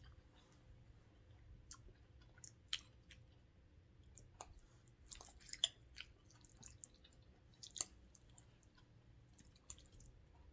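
Faint close-up chewing with scattered wet mouth clicks and smacks of someone eating noodles and boiled eggs.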